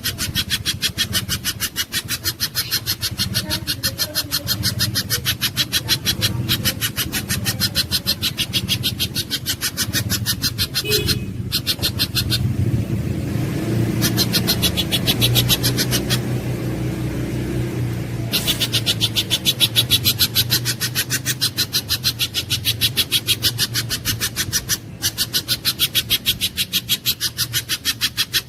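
Pijantung gunung (mountain spiderhunter) calling: a fast, even run of high, sharp chips, several a second, that breaks off for about six seconds midway and then resumes. A steady low hum runs underneath.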